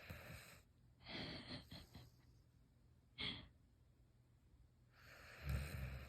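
Siberian husky snoring in its sleep: a noisy breath about a second in, a short sharp snort around three seconds, and a longer snore with a low fluttering rattle near the end.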